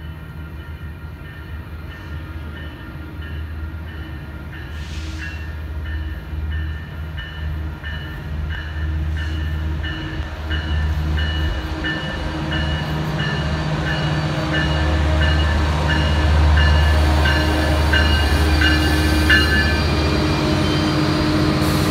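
Metrolink F125 diesel-electric locomotive leading a commuter train into the station, its engine and wheels growing steadily louder as it draws near and passes close. A bell rings about once a second throughout.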